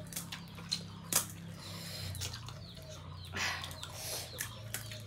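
Close-miked eating sounds: crisp pani puri shells crunched and chewed, with many short wet mouth clicks and a longer crunch about three and a half seconds in, over a low steady hum.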